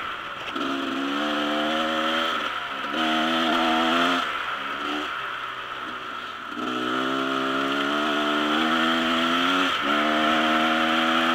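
Dirt bike engine running under throttle in several bursts of a second or more each, its pitch easing between them, over a steady hiss.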